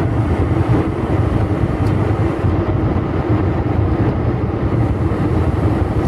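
Steady cabin noise of an Airbus A321 airliner in flight on approach: a deep, even rumble of jet engines and airflow with a faint steady hum on top.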